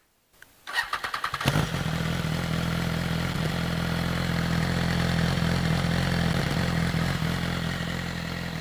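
2014 BMW S1000RR's inline-four engine, breathing through a TaylorMade full exhaust system, being started warm: a brief starter crank under a second long, then it catches about a second and a half in and settles into a steady idle.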